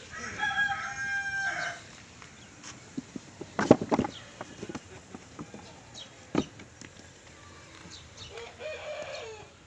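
A rooster crows once, a long call starting about half a second in. Sharp knocks follow around the middle, and a second, lower animal call comes near the end.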